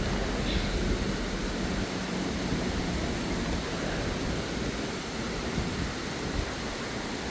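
Steady rushing of water in a mountain stream, an even wash of noise.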